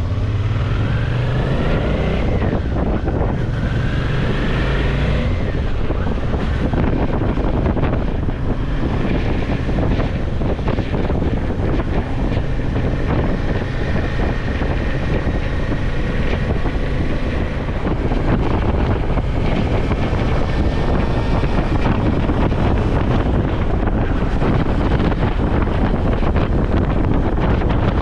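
Wind rushing over the microphone of a Suzuki V-Strom motorcycle at road speed, with the engine running beneath it. The engine note rises twice in the first five seconds as the bike accelerates.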